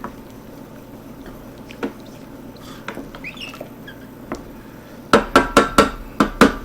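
A metal utensil knocking against a cooking pot: a few light clicks, then about five seconds in a quick run of about seven sharp, ringing knocks.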